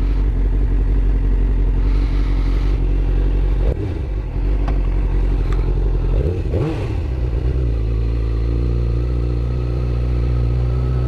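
Suzuki GSX-R sport bike's inline-four engine running, with a short rise and fall in pitch about six and a half seconds in as the bike gets under way.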